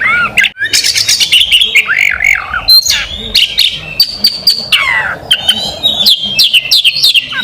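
Oriental magpie-robin (kacer) singing a loud, fast, varied song: arched whistled notes mixed with sharp clicking notes and a few falling sweeps, with no breaks.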